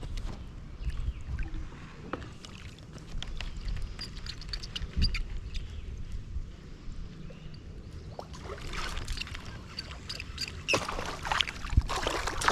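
Small-boat handling sounds, a low rumble with scattered clicks and knocks, then water splashing starting near the end as a bass strikes at the boat.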